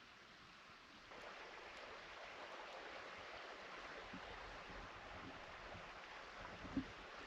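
Faint, steady outdoor hiss that starts about a second in, with a couple of soft knocks near the end.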